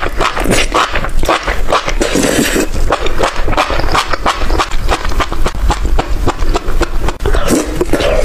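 Loud eating sounds: chewing and crunching, with many quick clicks and smacks.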